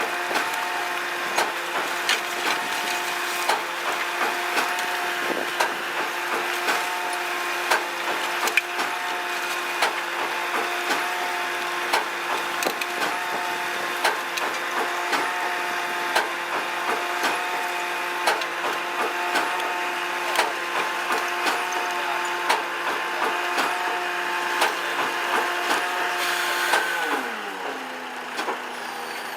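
Keith walking-floor truck body unloading a bulk load of wood chips, with a steady hydraulic whine that breaks in a repeating pattern every couple of seconds as the floor slats cycle, under frequent knocks and clatter of chips. Near the end the whine falls in pitch and the sound drops as the drive winds down.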